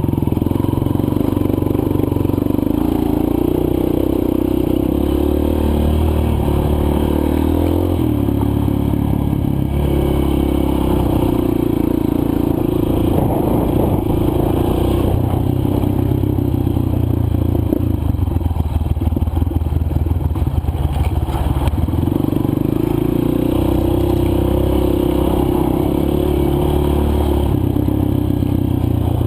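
Dirt bike engine running under way on a trail. Its pitch steps up and down again and again as the throttle and gears change.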